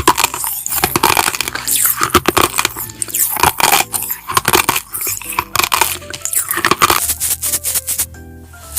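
Crunchy eating: rapid crackling bites and chewing of crisp food, over background music. The crunching thins out near the end.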